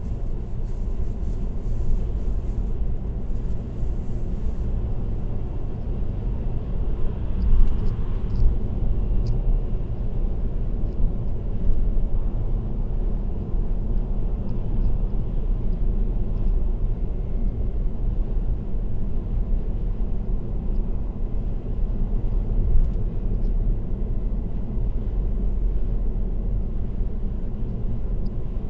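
Steady road and tyre noise of a car cruising on an expressway, mostly a low rumble, with a brief swell about seven seconds in.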